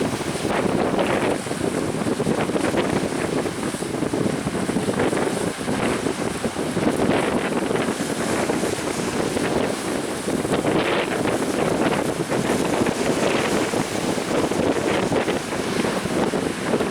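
Strong wind buffeting the microphone over the rush and splash of waves on a small fishing speedboat running in rough sea. The noise is loud and continuous, with frequent short gusts and splashes and no clear engine tone above it.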